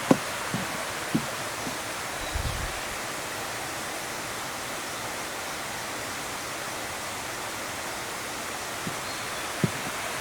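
Steady rush of flowing water, even and unbroken. A few soft footsteps on the path fall near the start and once near the end.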